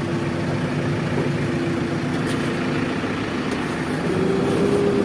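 Heavy diesel engine running steadily, picking up revs slightly about four seconds in.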